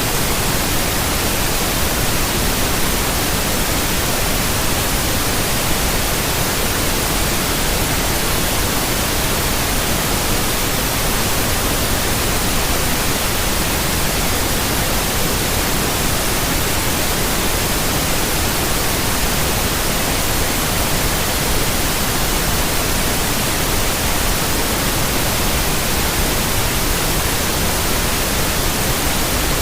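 Steady white noise: an even, unchanging hiss across the whole range from low to high pitches.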